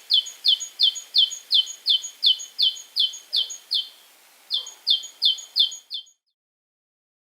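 Great tit singing: a fast, even run of short, high, repeated notes, about three a second. It breaks off briefly near the four-second mark, then picks up again and stops about six seconds in.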